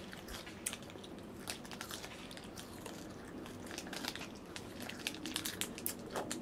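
Crunchy pickled plums (kari-kari ume) being chewed, with a small plastic snack wrapper crinkling in the fingers: a scatter of irregular small crackles and clicks.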